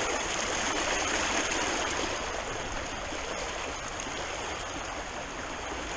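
Steady rush of a rain-swollen creek's flowing water, easing slightly toward the end.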